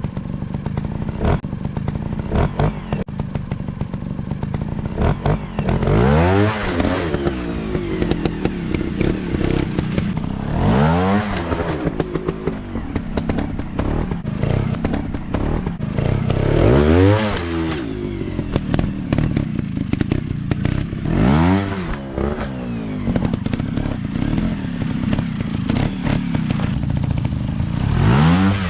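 Dirt bike engine running, revving up and easing off about five times, roughly every five seconds, with a rattling clatter throughout.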